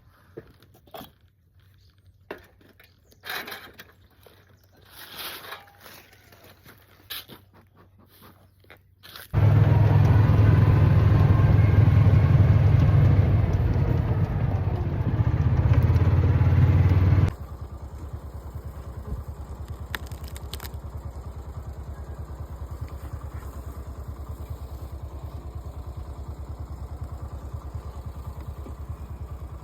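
A motor running: faint scattered noises at first, then loud for about eight seconds from about nine seconds in, then settling abruptly into a quieter, steady, evenly pulsing hum.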